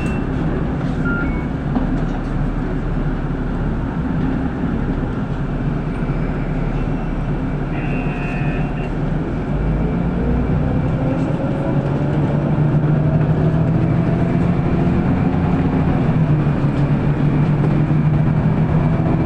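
City bus running between stops, heard from the passenger cabin: steady engine and road noise. About halfway through, a faint whine climbs in pitch and the engine gets a little louder.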